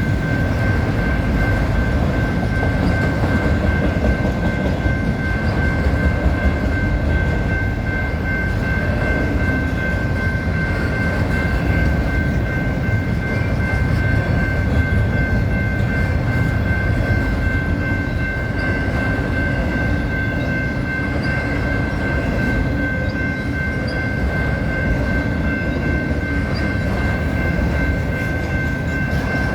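Freight cars of a westbound vehicle train rolling past with a continuous rumble and wheel rattle, and a steady high ringing tone held over it throughout.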